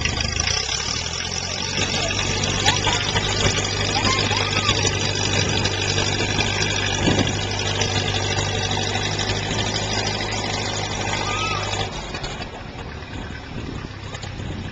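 Ferguson TEA-20 tractor's four-cylinder petrol engine running steadily, then dropping away to a quieter, less even sound about twelve seconds in.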